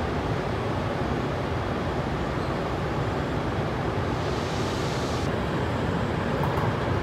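Steady low rumbling hum of a double-deck RER A train standing at an underground platform, mixed with station ventilation. About four seconds in there is a short hiss of air lasting about a second that cuts off suddenly.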